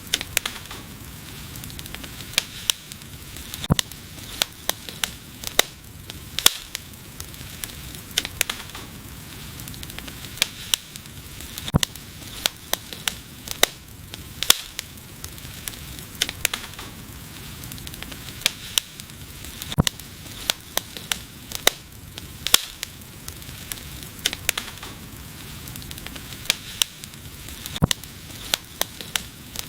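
Wood fire burning with a steady hiss and frequent irregular crackles and sharp pops, several of them loud.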